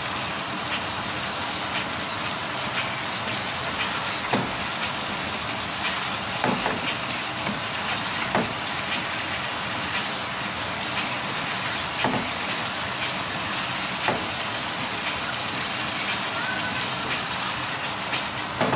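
Lamb and diced potatoes sizzling and crackling in a frying pan over a full gas flame, a steady hiss with many small pops, while a wooden spatula stirs and scrapes through them with occasional knocks against the pan.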